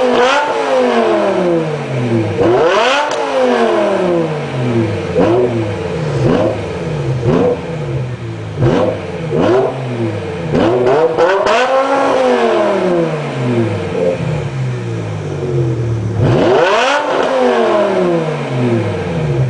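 BMW M6 E63's V10 engine through an Eisenmann race exhaust, revved repeatedly while standing: about nine blips, each rising and then falling back. Two of the later revs are longer and climb higher before it settles to a steady idle near the end.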